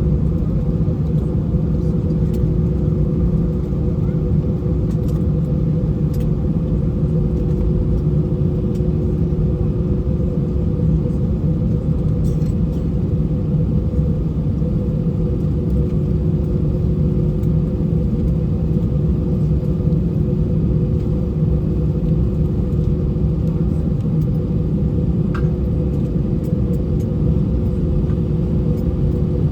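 Steady low cabin rumble inside an Airbus A319 airliner on the ground after landing, with an even engine hum running through it and a few faint clicks.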